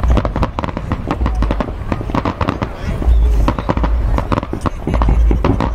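Fireworks display: a rapid, continuous run of sharp bangs and crackling reports, with several low rumbling booms among them.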